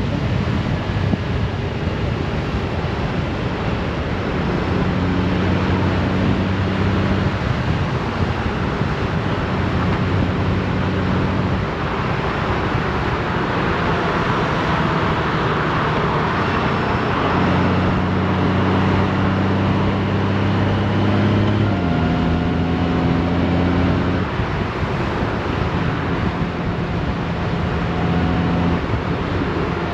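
Honda Gold Wing motorcycle riding on the road: a steady rush of wind and road noise over the microphone, with the engine's low hum beneath it. The hum shifts to a new pitch several times as speed and gears change, and the wind rush swells for a few seconds near the middle.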